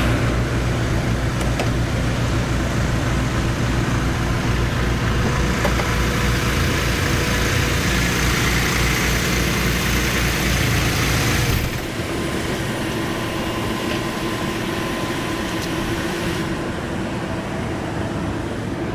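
Heavy diesel truck engine idling with a low, even pulse. About two-thirds of the way through its low rumble cuts off suddenly, leaving a steadier, quieter hum.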